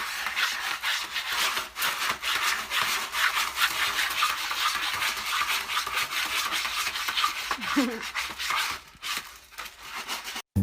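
Rapid, continuous scratching or rasping, many strokes a second, thinning out near the end.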